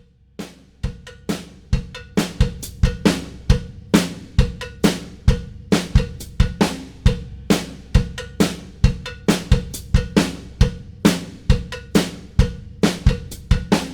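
A drum kit playing a steady rock beat on its own, with kick, snare and hi-hat at about two to three hits a second over a faint held note. It grows louder over the first couple of seconds.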